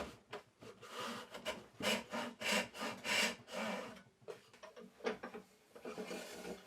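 Hand saw cutting through the wooden side of a box in short back-and-forth strokes, about three a second, the saw plate riding against a clamped straight-edge guide; the strokes grow sparser and lighter over the last few seconds.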